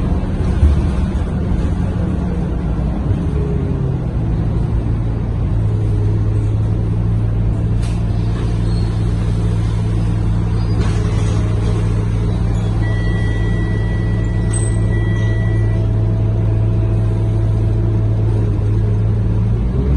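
Scania K230UB bus engine running with a steady low drone, heard from inside the passenger cabin. A faint high tone sounds briefly just past the middle.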